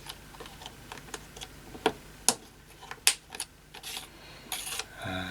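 Irregular sharp clicks and taps from small radio parts being handled and fitted into place, with a brief rattle near the end.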